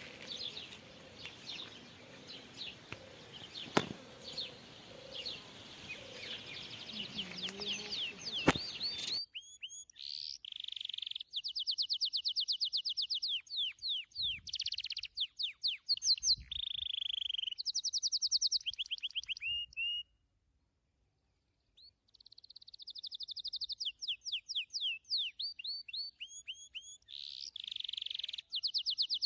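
Songbirds singing: chirps over a background hiss at first, with two sharp clicks, then clear song of rapid trills of repeated notes and quick downward-sweeping whistles. The song breaks off briefly about two-thirds of the way in.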